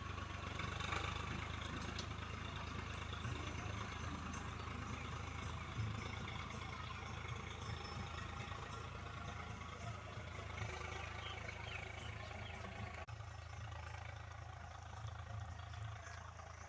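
An engine running steadily at low speed, with a steady hiss over it.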